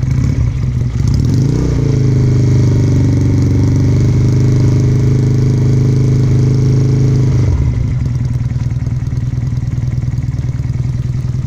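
Benelli Patagonian Eagle 250cc motorcycle running through an aftermarket exhaust. The engine rises to raised revs about a second and a half in and holds them steadily for about five seconds. Then it drops back to idle.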